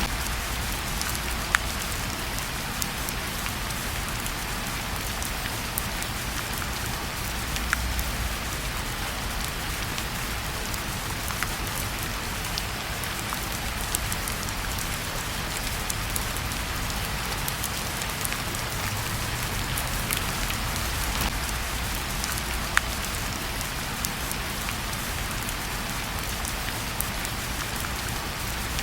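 Steady rain and a crackling fireplace: an even hiss of rain with a low rumble beneath, scattered with sharp pops and ticks, a few of them louder.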